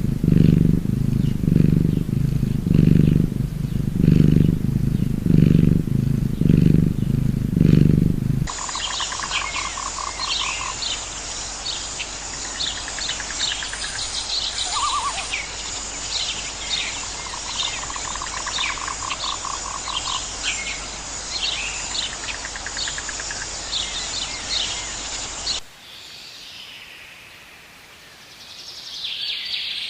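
Low, pitched pulses repeating about twice a second for the first eight seconds. These give way abruptly to birds chirping and trilling over a steady hiss, which stops suddenly near the end.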